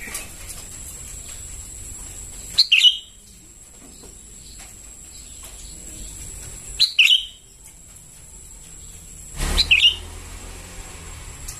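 Young sooty-headed bulbul (kutilang) calling: three short, sharp chirps a few seconds apart, each a quick swept note, over a steady faint high whine.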